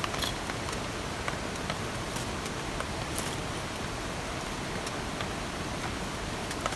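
Steady rain, an even hiss with scattered sharper drops tapping close by.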